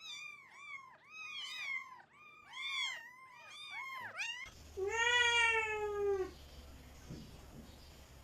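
A cat meowing: a quick run of about a dozen short, high meows, then one longer, lower meow that falls slightly, about four and a half seconds in.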